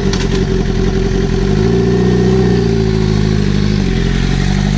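Motorcycle engine running loud with its slip-on muffler removed. The engine note climbs about one and a half seconds in, holds, then drops back near four seconds.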